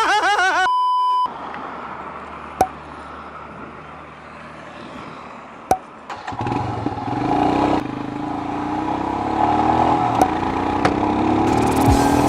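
Motorcycle engine pulling away, its pitch rising as it gathers speed from about six seconds in. Before that comes a short steady beep near the start and two sharp clicks.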